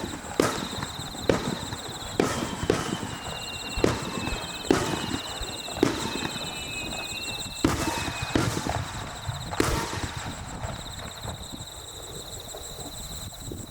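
Fireworks shells bursting in a steady series of sharp bangs, about one a second, which stop about ten seconds in. A faint high whistle slides down in pitch partway through.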